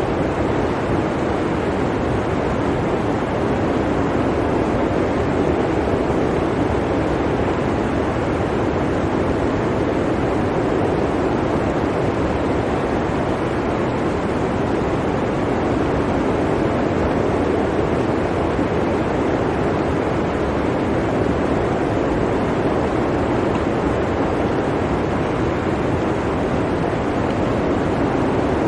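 Blizzard wind blowing steadily, a continuous deep rushing noise without gusts or breaks.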